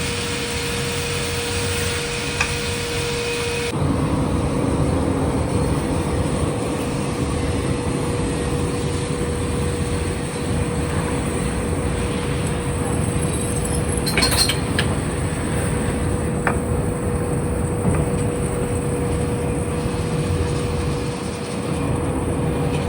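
Submerged arc welding equipment running: a steady machine hum with a constant tone, the noise stepping up and growing louder about four seconds in, with a few faint clicks in the middle.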